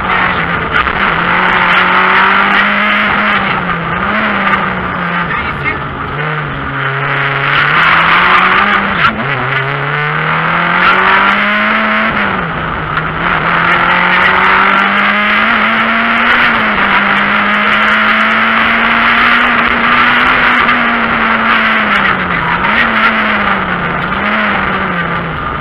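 Renault Clio III RS rally car's four-cylinder engine being driven hard, heard from inside the cabin. The engine note climbs through the revs and drops back sharply several times, with a steady stretch in the middle, over loud intake and road noise.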